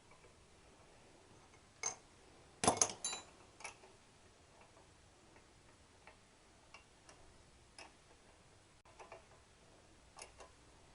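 Scattered small metal clicks and clinks of a spanner and nuts being worked on a motorcycle during reassembly, with a quick cluster of sharper clinks about three seconds in.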